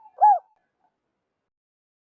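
Spotted dove cooing: the last short coo of a phrase about a quarter second in, then silence.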